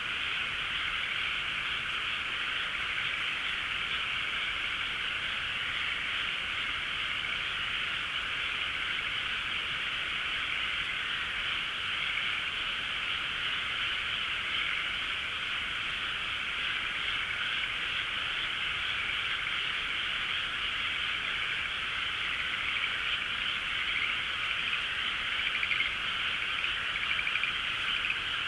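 A dense chorus of many frogs calling at once, an unbroken wall of calls; near the end a few individual calls stand out louder.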